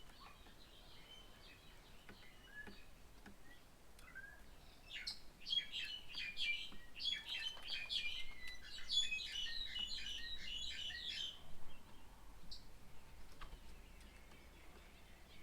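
Birds chirping: a few faint scattered calls, then a dense run of rapid, high chirps for about six seconds starting about five seconds in, which then drops back to occasional calls.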